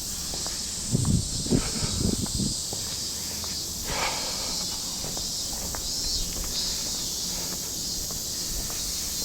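Steady high-pitched drone of summer cicadas, with a few low thumps about one to two and a half seconds in.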